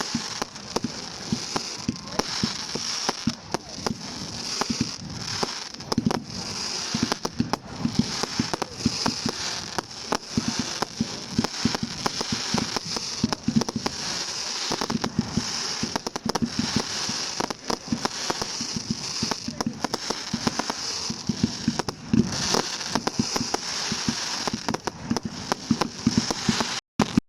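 Fireworks display: a continuous barrage of bangs, low thuds and dense crackling, with no let-up until a brief break just before the end.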